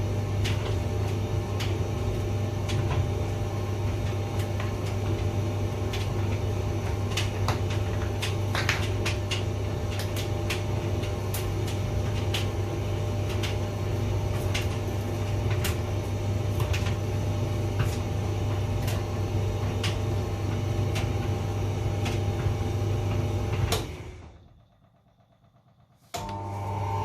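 Hotpoint vented tumble dryer running: a steady low hum with frequent light clicks and knocks from the drum. Near the end it winds down to near silence for about two seconds, then starts again abruptly.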